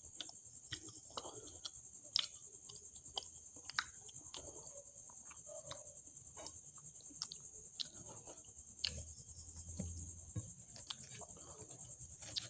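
Close-miked eating: scattered soft chewing and small mouth clicks as someone eats kachori with curry, with a steady high-pitched whine underneath.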